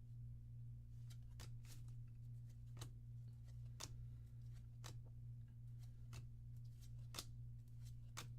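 Trading cards from a freshly opened booster pack being flipped through one by one, a faint sharp card snap about once a second over a steady low hum.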